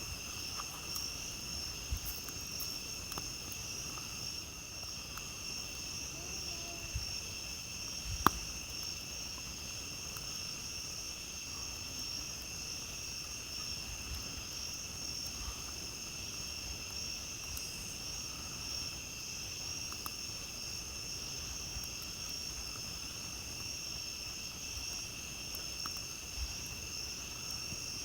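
Crickets and other night insects trilling in a steady, continuous high chorus. Faint scattered crackles from a wood campfire run underneath, with one sharp pop about eight seconds in.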